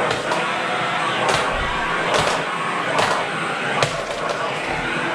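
Vacuum cleaner running with a loud, steady rushing noise, broken by sharp knocks or clatters about once a second.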